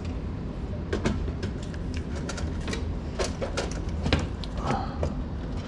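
Steam humidifier parts being handled: scattered clicks and knocks, several close together near the middle, over a steady low hum.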